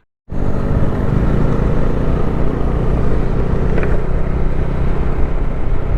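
Bajaj Dominar 400's single-cylinder engine running steadily while riding, with wind rushing over the helmet-mounted camera.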